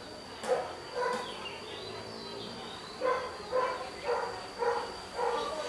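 A dog barking: two barks, a short pause, then a run of five about twice a second. Faint bird chirps fall in the pause.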